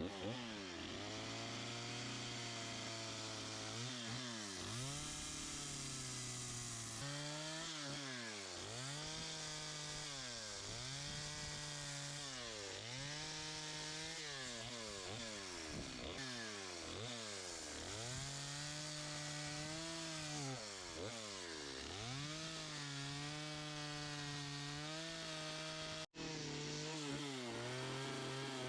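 Two-stroke chainsaw carving the toes of a wooden eagle, its engine speed dropping and rising again and again as the throttle is worked through short cuts. There is a momentary break about 26 seconds in.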